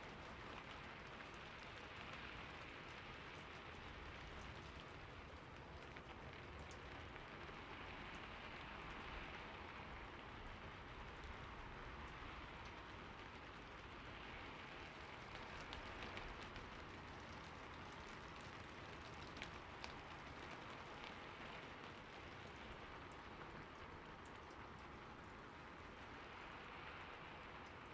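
Rain falling steadily on a roof: a faint, even hiss of rain that swells gently now and then, with a few separate drop ticks about midway.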